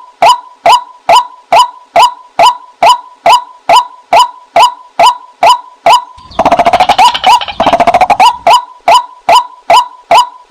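White-breasted waterhen calls from a female-call decoy recording: short rising 'kwak' notes repeated a little more than twice a second. A little over six seconds in, a faster, harsher rattling run lasts about two seconds before the steady calling resumes.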